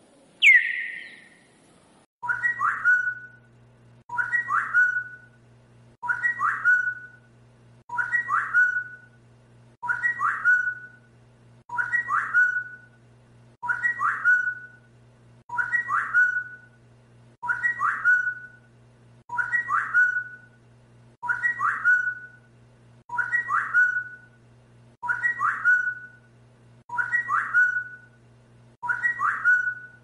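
A short whistled phrase repeated identically about once every two seconds, with a steady low hum beneath: a looped recording played to teach a talking parrot to copy it. It opens with one loud, falling tone.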